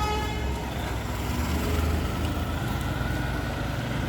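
Street traffic: motor vehicle engines running with a steady low rumble, and a short pitched tone fading out right at the start.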